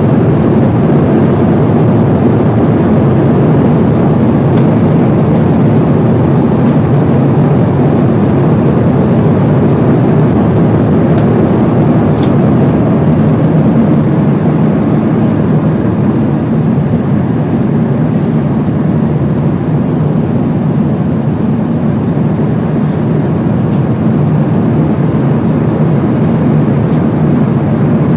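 Airbus A350-900 passenger cabin in cruise: a loud, steady rush of airflow and engine noise, with a few faint clicks.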